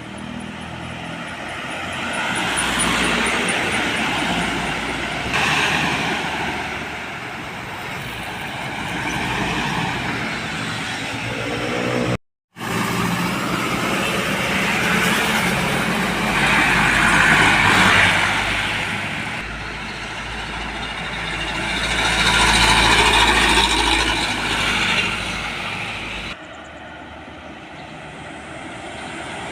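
Road vehicles, trucks among them, passing by, the noise swelling and fading several times. There is a brief dropout about twelve seconds in and a sudden change near the end.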